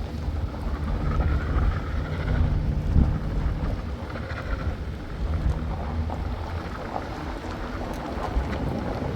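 Steady low rumble of a vehicle on the move, with wind noise over it.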